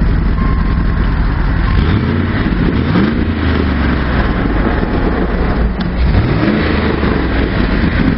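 Exhaust note of a 1998 Dodge Dakota through its bed-mounted smokestack exhaust, the engine running with a steady rumble and revved up and back down a few times, about two seconds in and again around six seconds.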